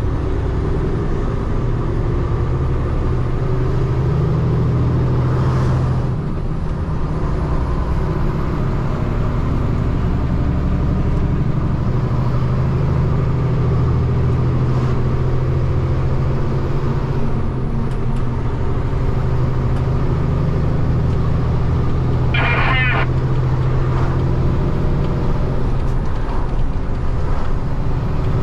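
Peterbilt 589 dump truck's diesel engine running at a steady drone on the road. A brief high-pitched chirp sounds about two-thirds of the way through.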